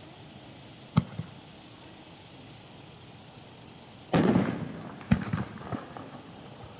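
Knockout Brocade, a 3-inch 9-shot fireworks cake, firing: a single sharp report about a second in, then a louder boom with a short rumbling tail around four seconds in, followed by a few smaller cracks.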